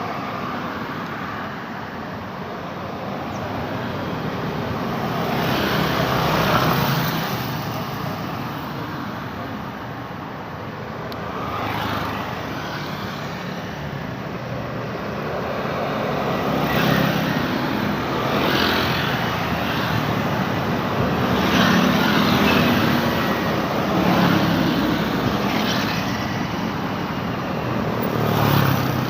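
Road traffic: a steady stream of cars and motorbikes passing one after another, each pass swelling and fading over a few seconds.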